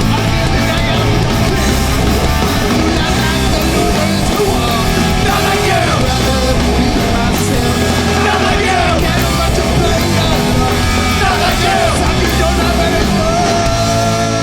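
Hardcore punk band playing live at full volume, with yelled vocals over the music.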